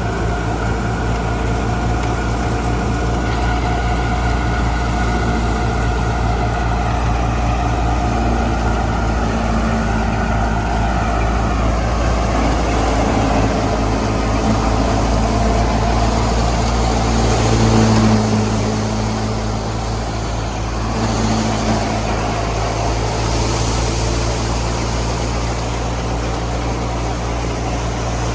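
Clayson 8080 combine harvester's engine and machinery running steadily, with a brief swell in level about two-thirds of the way through.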